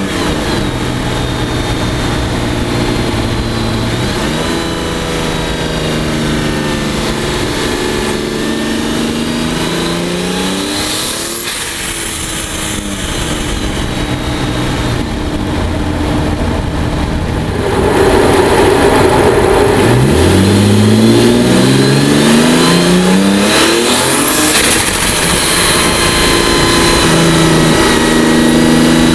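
Twin-turbo V12 of a heavily modified 2003 Mercedes-Benz CL600, fitted with BorgWarner S200 turbos, pulling through the revs and easing off several times. It gets louder about two-thirds of the way through, where the revs climb quickly. Short bursts of hiss ride over the engine about a third of the way in and again near the end.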